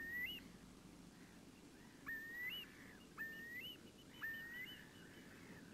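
A bird calling: four short rising calls, each ending in an upward hook, about a second apart.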